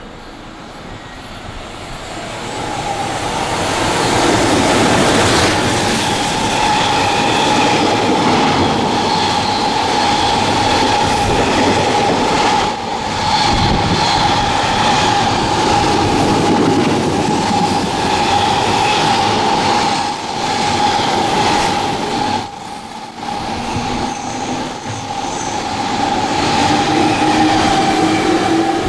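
A JR West electric train on the Biwako Line passing through at speed: loud steady rumble and wheel clatter building up over the first few seconds, with a steady high whine held throughout and a rising tone near the end.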